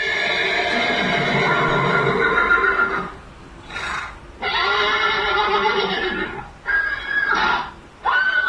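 Horse whinnying repeatedly: two long whinnies of two to three seconds each, with shorter calls between and after them.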